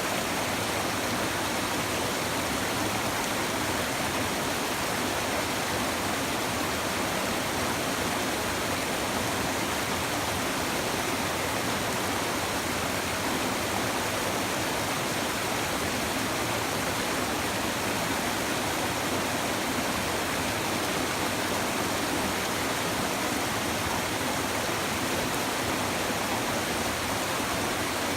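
Shallow river babbling over stones, a steady, unbroken rush of running water.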